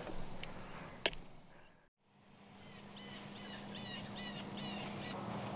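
Two sharp clicks, then after a short break, quiet outdoor ambience over a faint steady hum. In it a bird repeats a short chirping call about seven times, roughly three a second.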